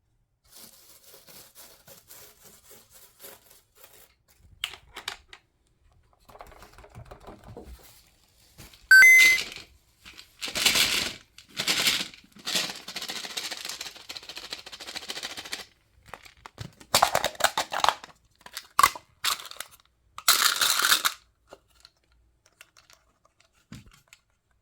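Crinkling and scraping handling noises in irregular bursts, with a sharp click about nine seconds in.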